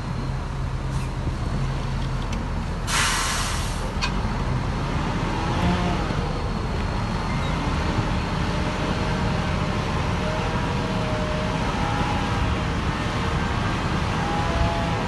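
Heavy diesel earthmoving machinery running steadily under load, with a short sharp hiss of released air about three seconds in.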